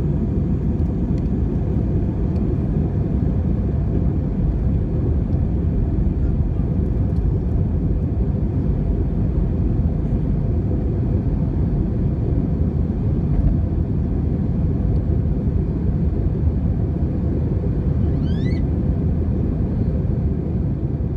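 Airbus A320 engines and airflow heard from inside the cabin as a steady, deep rumble during the climb after takeoff. About 18 seconds in there is a short, high, rising squeak.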